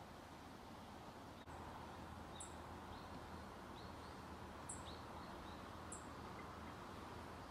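Small birds in the trees giving short, high chirps every second or so, with fainter lower calls between, over a faint steady outdoor background hiss.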